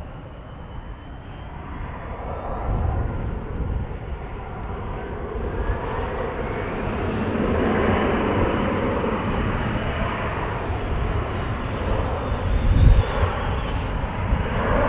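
Embraer E175 regional jet's engines growing louder, with a whine rising in pitch about halfway through, as the jet takes off past. Wind buffets the microphone with uneven low rumbles.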